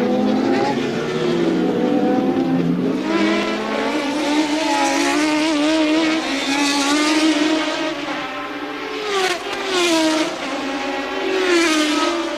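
Early-1980s Formula One cars racing, several engine notes overlapping and rising and falling with gear changes. Cars pass close about nine and eleven and a half seconds in, each with a loud swell and a falling pitch.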